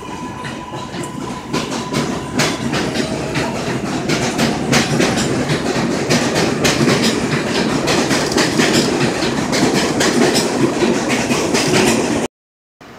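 Passenger train passing along the tracks, its wheels clicking rhythmically over rail joints and growing louder after the first couple of seconds. A faint steady whine is heard at first, and the sound cuts off suddenly near the end.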